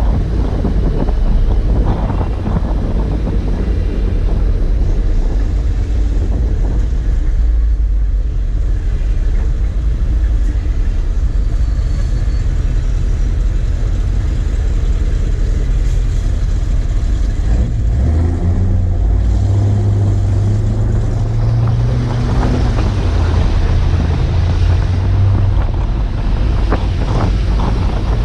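Heavy truck engine running with a steady low rumble, its note steadying into a pitched hum for several seconds past the middle. Wind buffets the microphone throughout.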